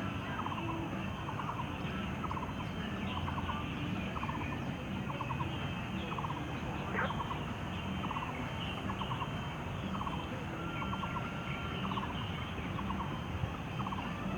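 A bird calling over and over: a short rattling call repeated about every three quarters of a second, over a steady low background rumble.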